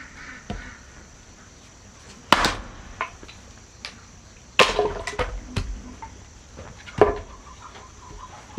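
Three heavy blows of a tool striking wood, about two and a half seconds apart, with lighter knocks in between.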